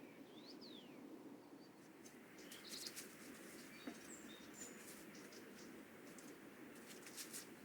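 Faint, scattered bird chirps and short whistles over a quiet background hum, with a few faint clicks around three seconds in and again near the end.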